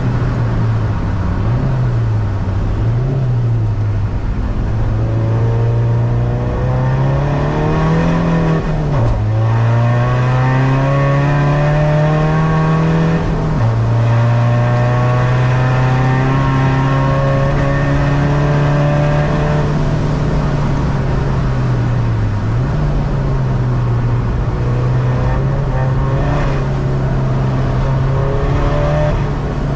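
A tuned diesel SEAT Ibiza's engine pulling hard, heard from inside the cabin. Its pitch climbs steadily under acceleration and drops sharply at two upshifts about a third of the way through, then holds steadier with brief dips as the driver lifts for corners.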